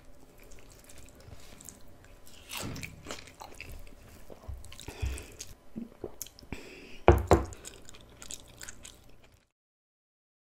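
Close-miked mouth sounds of eating: wet chewing and squishing with irregular clicks, the loudest sharp one about seven seconds in.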